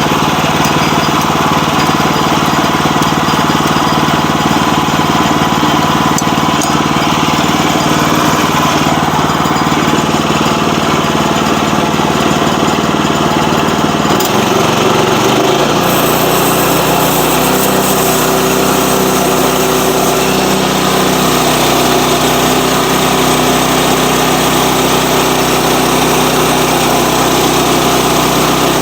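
Small petrol engine of a log sawmill running steadily. About halfway through, its note drops and a hissing rises above it.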